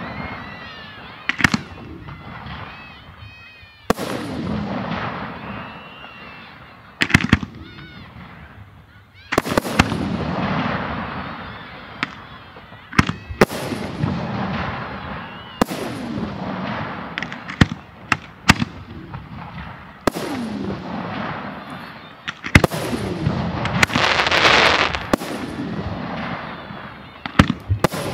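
Aerial firework shells bursting one after another, a sharp bang every second or two, each followed by a long rolling rumble and crackle. The densest, loudest stretch of bursts comes near the end.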